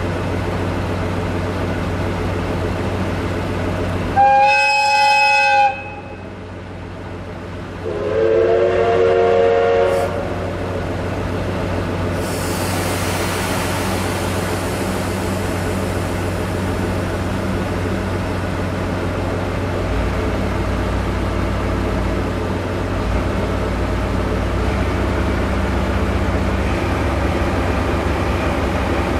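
Diesel locomotive engine idling with a steady drone. About four seconds in a loud horn blast sounds for about a second and a half, and a couple of seconds later a second, lower train horn or whistle with several tones sounds for about two seconds. From about twenty seconds in the engine note grows deeper and louder.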